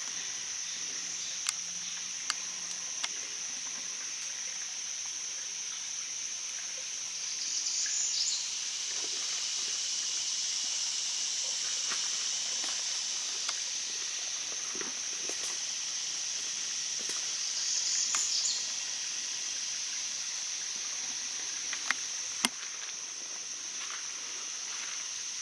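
Steady, high-pitched insect chorus in the swamp, swelling louder twice for about a second, around 8 and 18 seconds in. There are a few sharp clicks, three near the start and two close together about 22 seconds in.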